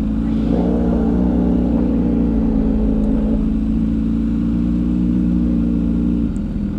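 MV Agusta Superveloce motorcycle engine running at steady low revs, with a change in its note near the end.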